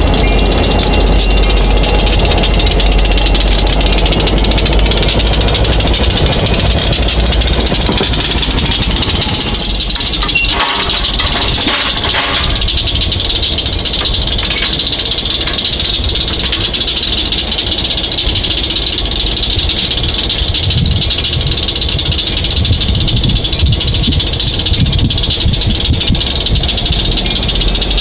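Diesel locomotive engine running steadily during a switching move, with rattling and a steady high whine over the low engine sound, which grows stronger in the second half.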